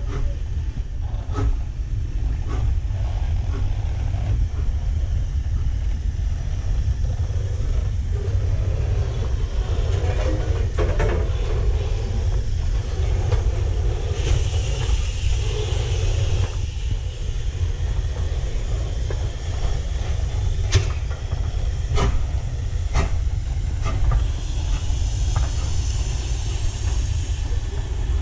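Steam train running on the line: a steady low rumble with scattered clicks of wheels over rail joints, and two spells of steam hissing, one about halfway through and one near the end.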